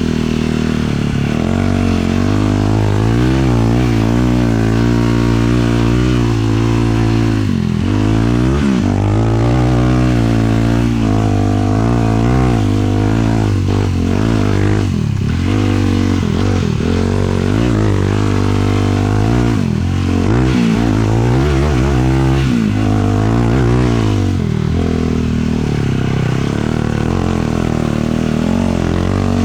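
Single-cylinder 450 sport quad engine running hard under throttle, its pitch dropping and climbing again several times as the throttle is let off and opened back up.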